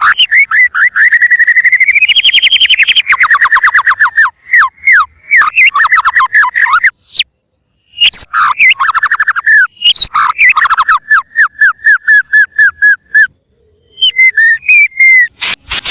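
White-rumped shama (murai batu) singing vigorously: loud, fast runs of repeated whistled notes and rattling trills, broken by short pauses about seven and thirteen seconds in.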